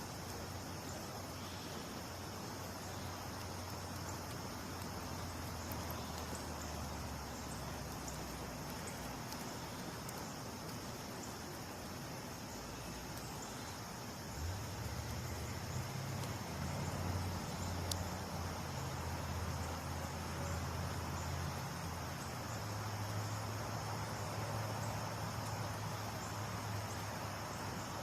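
Chorus of night insects trilling steadily in high, even tones, with a low hum underneath that grows louder about halfway through.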